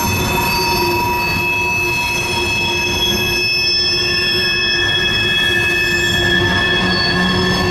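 Freight train of covered grain hopper cars rolling past: steel wheels squealing against the rails in several steady high tones over a continuous low rumble of the wheels.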